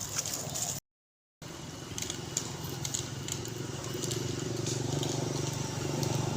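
A steady engine hum of a motor vehicle running, growing a little stronger partway through, with scattered small clicks. The sound cuts out completely for about half a second near the start.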